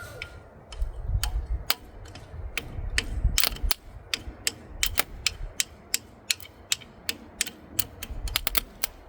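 A string of sharp, irregular metallic clicks, one to three a second and closer together near the end, from hands working the rusty mechanism of an old Gravely walk-behind tractor.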